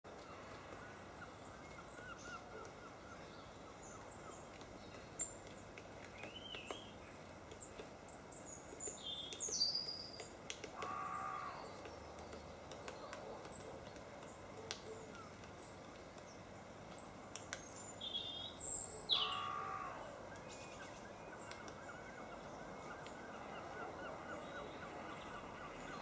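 Wild birds calling: scattered short, high chirps and whistles, with two louder, longer and lower calls about eleven and nineteen seconds in. A few faint, sharp taps sound among them.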